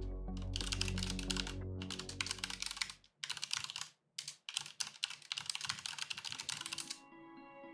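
Rapid typing on a computer keyboard, in a few fast runs of keystrokes with brief pauses between them, over soft background music that fades out partway and returns near the end.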